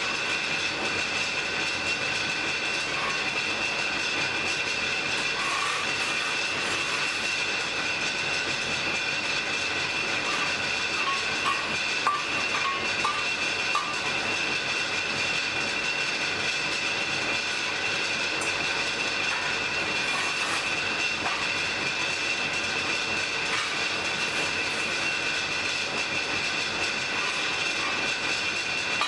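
Forge fire burning under a steady air blast: a constant rushing hiss with a steady high whine, and a few faint ticks around the middle.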